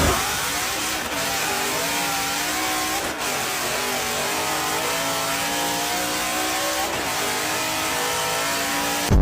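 Car engine and exhaust running under sustained load on a chassis dyno, at an even loudness with its pitch wavering slightly.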